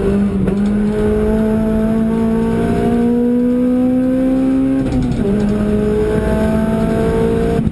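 Car engine heard from inside the cabin while accelerating on a race circuit, its note climbing steadily. The pitch drops sharply at an upshift about five seconds in, then climbs again.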